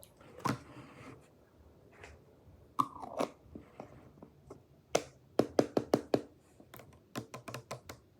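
Slime being pressed and worked by hand, giving a string of sharp clicking pops, with a quick run of about five pops around the middle and another cluster near the end.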